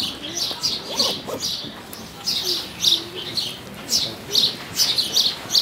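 Birds chirping repeatedly, about two short high chirps a second, coming faster in the second half, with faint low gliding calls beneath.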